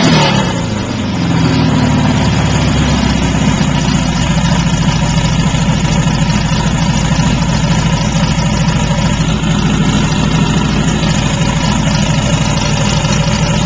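Turbocharged 1835 cc air-cooled Volkswagen flat-four engine with a blow-through setup, running on a test stand: the revs fall back over the first second or so, then it idles steadily.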